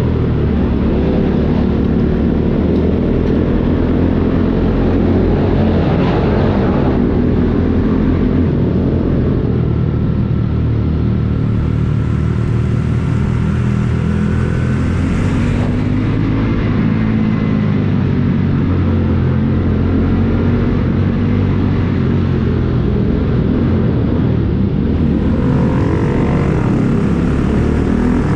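Motorcycle engine running steadily while riding, its pitch rising and falling a little in places.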